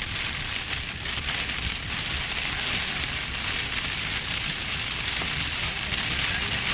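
Heavy rain pouring steadily, an even hiss of drops on surfaces, with a low rumble of strong wind buffeting the microphone.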